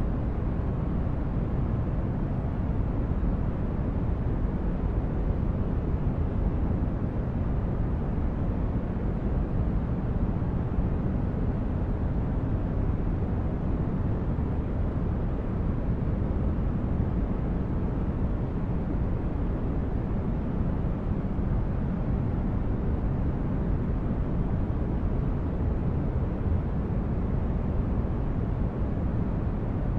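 Steady, unchanging noise for sleep and relaxation, deep and rumbling, with most of its weight in the bass and only a little hiss on top.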